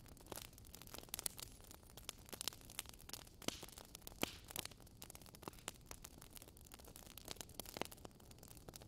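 Fire crackling in a fireplace: faint, irregular pops and snaps over a soft hiss.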